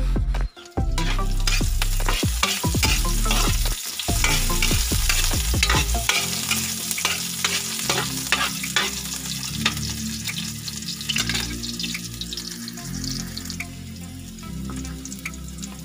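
Ginger and onion slices sizzling in oil in a wok, with a spatula scraping and knocking against the wok as they are stirred. A low rumble lies under the first six seconds or so.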